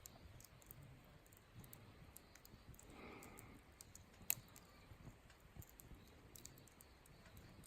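Faint crackling of a small wood campfire: scattered sharp pops and ticks, with one louder pop about four seconds in.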